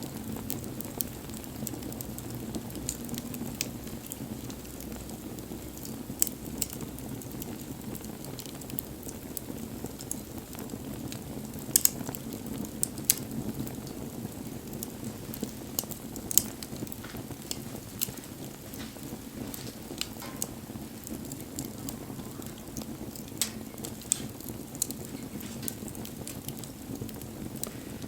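Wood fire burning: a steady low rush of flames with scattered crackles and sharp pops, the loudest about twelve seconds in.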